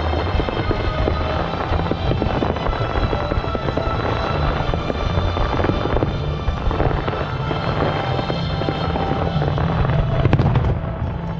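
Fireworks going off with continuous crackling and one sharp bang about ten seconds in, over music with a steady bass.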